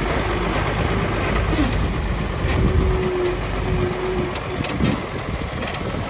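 Heavy earthmoving machinery running under load, a diesel engine's dense noise, with a short burst of air hiss about a second and a half in, like an air-brake release.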